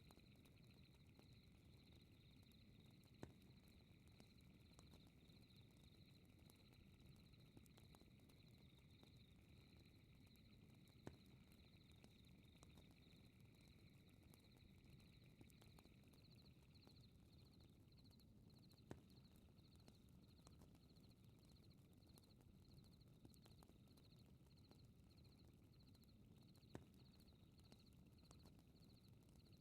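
Faint fireplace fire crackling low, with a sharper pop about every eight seconds, under a steady fast trill of night insects; a second, lower insect trill drops out a little past halfway.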